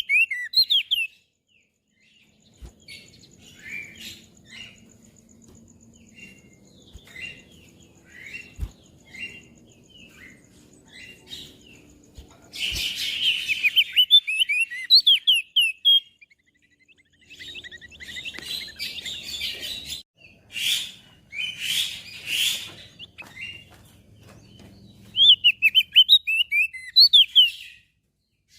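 A crested white-eye (opior jambul) singing in fast chattering runs of sharp up-and-down notes, with quieter scattered chirps between the runs. Harsh noisy bursts break in near the middle.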